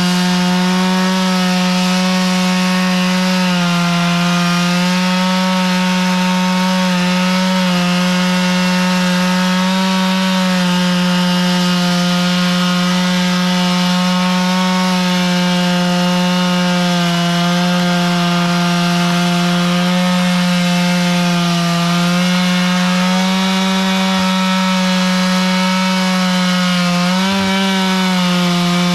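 Chainsaw engine running steadily at high speed under load while ripping lengthwise through a log, as in chainsaw milling; its pitch sags briefly now and then as the cut bogs it down.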